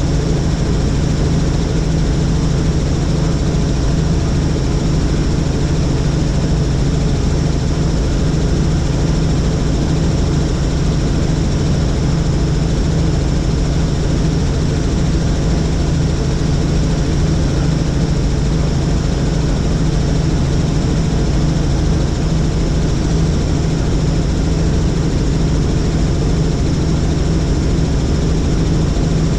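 Helicopter in steady cruising flight: a loud, unchanging drone of engine and rotors, with a deep hum and a higher whine that holds steady throughout.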